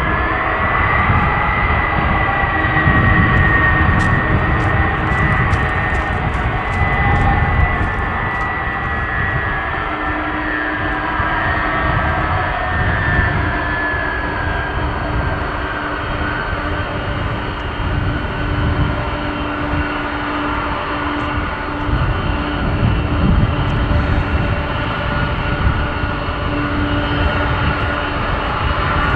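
Boeing 747-400 freighter's jet engines running loud. There is a steady low rumble and a high whine that rises in the first second, then slowly falls in pitch.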